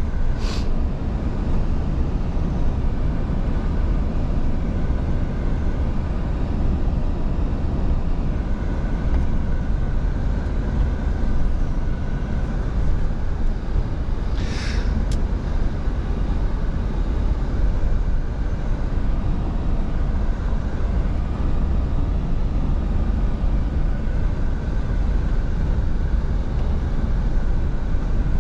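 Scania V8 truck engine running steadily under way, with one short hiss about halfway through.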